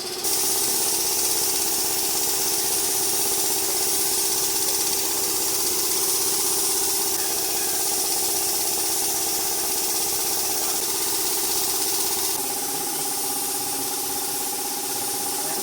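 A machine running steadily with a strong hissing noise over a steady hum; the sound shifts abruptly twice, just after the start and about three-quarters of the way through.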